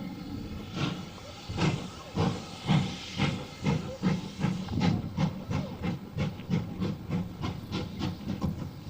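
Steam locomotive exhaust chuffing over a hiss of steam. The beats start about a second in and steadily quicken, as the engine gets under way.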